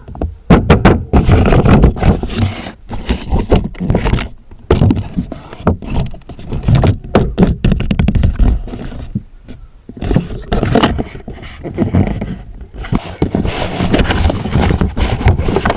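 Loud, irregular scraping and rattling in uneven bursts with short pauses.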